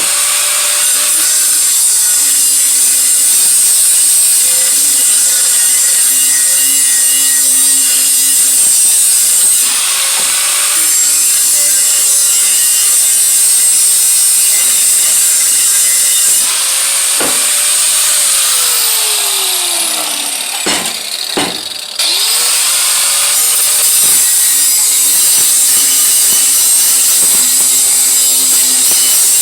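Handheld power tool working the steel exhaust head pipe, a steady high grinding hiss. About 18 seconds in its pitch falls as it slows, it drops away briefly, then it spins back up about 22 seconds in.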